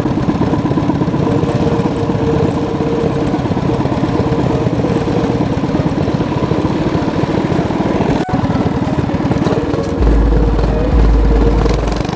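Mini bike's Predator 212 single-cylinder engine running steadily, with a sharp click about eight seconds in. About ten seconds in, background music with a heavy bass beat comes in over the engine.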